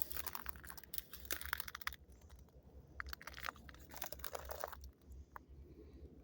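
Footsteps crunching on the gravel ballast of a railroad track, in uneven clusters of short crunches with pauses between them.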